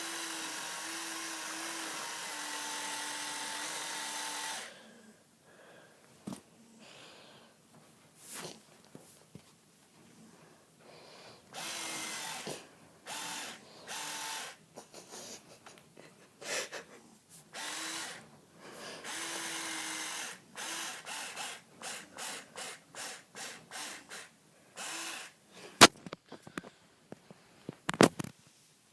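A rasping buzz that seems to come from a cat's rear end, starting and stopping in stretches of one to four seconds, the longest at the start. There are a couple of sharp clicks near the end.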